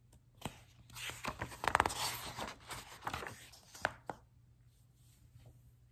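A picture-book page being turned by hand: paper rustling and crinkling with a few sharp snaps for about four seconds, loudest about two seconds in.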